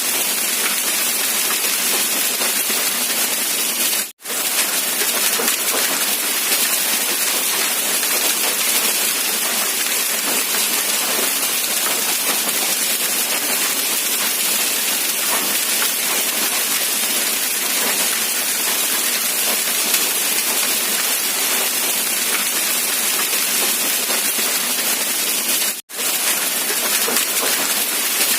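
Steady rain, an even hiss with no single drops standing out. It cuts out to silence for an instant twice, about four seconds in and again a couple of seconds before the end.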